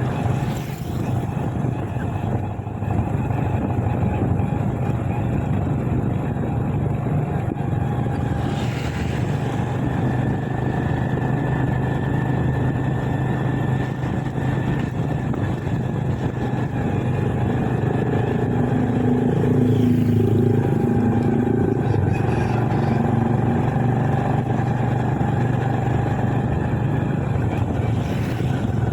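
Motorbike engine running steadily while riding, with road and wind noise. Another engine note rises and falls briefly about two-thirds of the way through.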